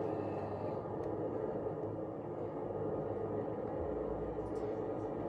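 Tractor-trailer running down the road, heard from inside the cab: a steady low engine and road rumble.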